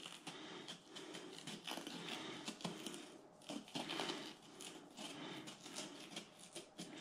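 Faint, irregular small clicks and rustling from hands handling a red bell pepper and things on a kitchen work surface.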